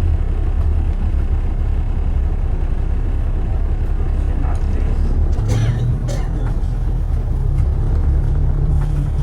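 Steady low rumble of city road traffic, with a short cluster of brighter, higher-pitched sounds about five and a half seconds in.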